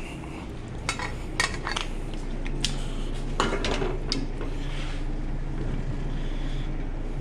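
Kitchenware clattering on a restaurant line: a string of sharp knocks and clinks as dishes and utensils are set down and handled, with a longer rattle about halfway through, over a steady low hum.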